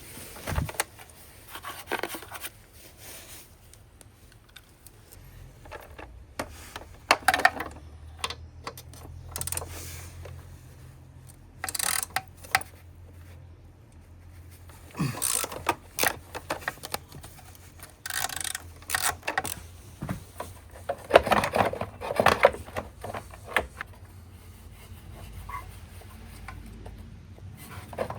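Hand tools working the two 10 mm exhaust bolts on a Honda Vision NH80 scooter, with the metal exhaust being handled. Scattered metallic clicks, clinks and rattles come in short bursts with pauses between.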